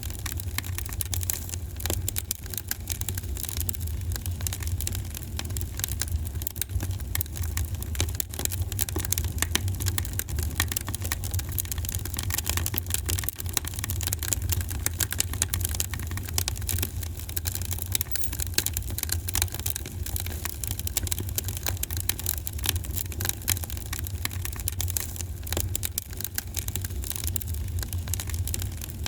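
A wood fire in a fireplace crackling, with a constant stream of small pops and snaps over a steady low rumble.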